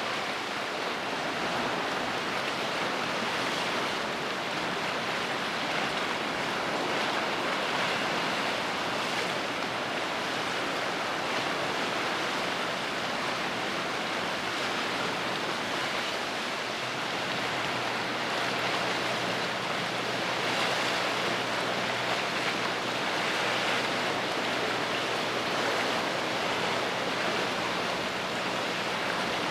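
Steady rushing noise of water and wind, with a faint low hum coming in about halfway through.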